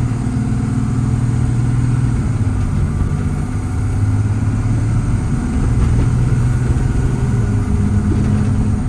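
Paccar PX7 inline-six diesel engine of a Kenworth T270 running steadily as the truck drives, with road noise, heard from inside the cab.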